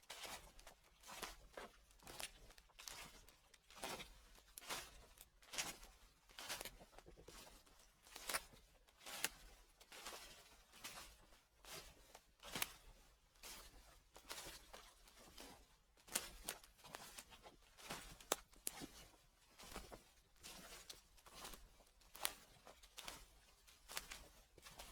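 Footsteps crunching through dry fallen leaves, a steady walking pace of crackling steps.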